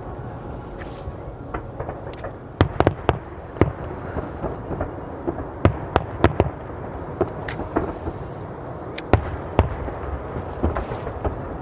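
Aerial fireworks shells bursting: a run of sharp bangs, some in quick clusters about 3, 6 and 9 seconds in, over a steady background noise.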